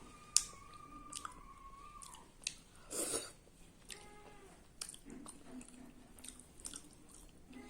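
A person chewing food close to the microphone, with scattered wet mouth clicks: one sharp click about half a second in and a short louder burst of noise around three seconds in.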